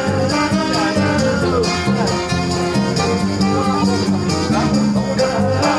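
A rock band playing live, an instrumental passage between sung verses with a steady beat and guitar.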